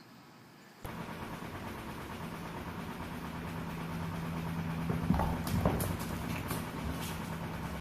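A small motor or engine running with a steady hum, starting suddenly about a second in, with a few short knocks and rustles past the middle.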